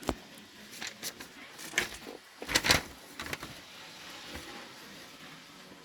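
Light clicks and knocks of a small model locomotive being handled, a few scattered taps with the loudest cluster a little before the middle.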